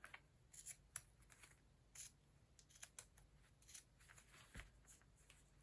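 Ordinary desk scissors making faint, short snips at irregular intervals while cutting along a printed line.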